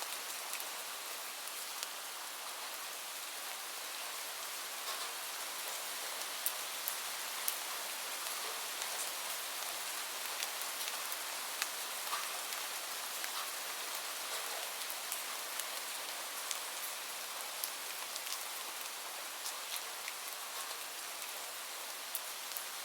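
Steady rain falling, with the sharp ticks of individual drops scattered through the even hiss.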